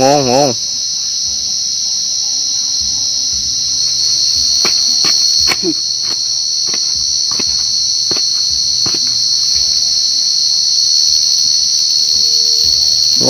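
A cricket calling close by: one loud, continuous high trill that holds steady throughout, with a few sharp knocks about halfway in.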